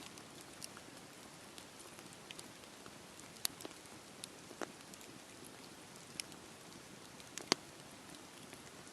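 Campfire crackling in steady rain: an even hiss of rainfall with scattered sharp pops, the loudest about seven and a half seconds in.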